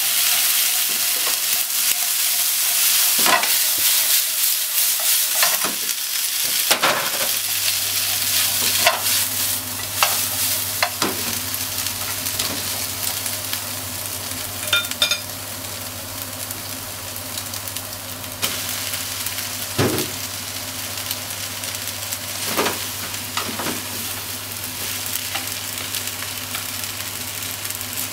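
Pork, onion and kakinoki mushrooms sizzling in a nonstick frying pan while being stir-fried, with wooden utensils knocking and scraping against the pan now and then. The sizzle eases slowly, and a low steady hum comes in about a quarter of the way through.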